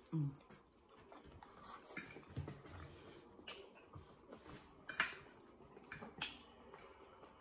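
People chewing steak and mashed potatoes, with a few sharp clicks of metal knives and forks on plates, the loudest about five seconds in.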